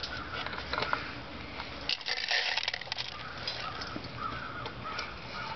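Bird seed and a plastic bird feeder being handled: a run of small clicks and rattles, densest about two seconds in.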